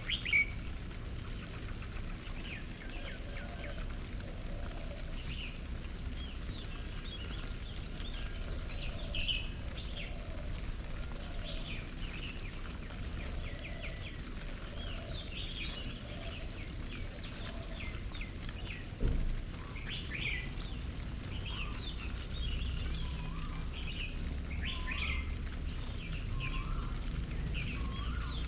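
Several birds chirping and calling, with many short high chirps throughout, softer lower notes in the first third, and a series of short rising notes in the last third. There is a single thump about two-thirds of the way through, over a steady low background rumble.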